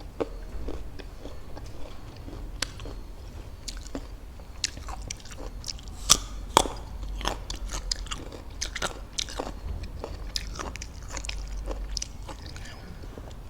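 Close-up eating sounds of raw fruit being bitten and chewed: irregular crisp crunches and wet mouth clicks, with two sharp loud bites about six seconds in.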